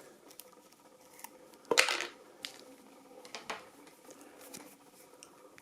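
Handling noise: a sharp knock about two seconds in, then a few lighter clicks and faint rustling as the power supply and its cables are handled.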